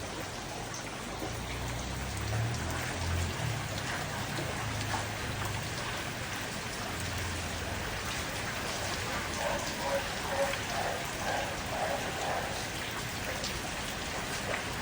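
Water droplets pattering steadily on leaves and surfaces, dense fine ticks from rain or drips off a tree soaked by a rainstorm.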